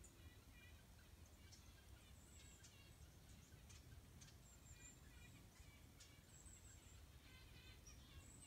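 Faint calls of wild birds: several quick rattling runs of notes and a few thin high squeaks, over a steady low background hum.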